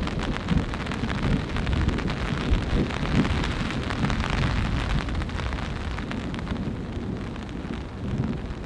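Rain falling on a taut ripstop tarp: a dense patter of individual drop hits on the fabric, over an uneven low rumble. It eases slightly in the second half.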